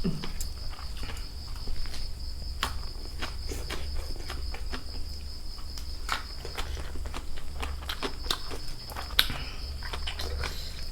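Chewing and crunching of raw vegetables, a scatter of irregular crisp clicks, over a steady high trill of crickets.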